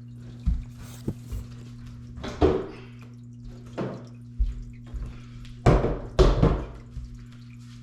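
Irregular knocks and clunks of hard objects being handled, about eight of them; the loudest come about two and a half seconds in and twice near six seconds. A steady low hum runs underneath.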